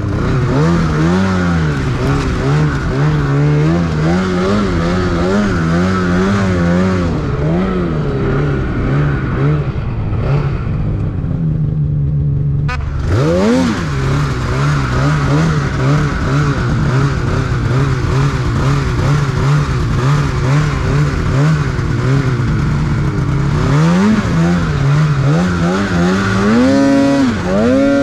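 Snowmobile engine running under constantly changing throttle, its pitch wavering up and down. About ten seconds in it falls away almost to idle, then revs sharply back up. Near the end it climbs again to a higher, steady pitch.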